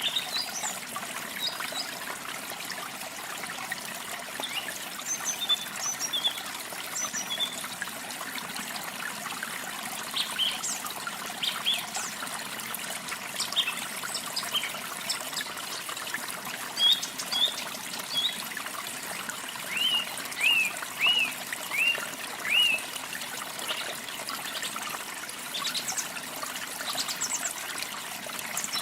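Water trickling steadily, with small birds chirping over it. About twenty seconds in, one bird gives a quick run of six chirps, the loudest sounds.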